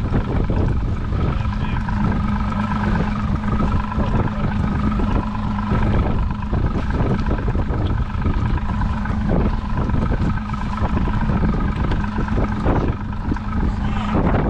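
Strong wind buffeting the microphone, with a boat motor humming steadily underneath.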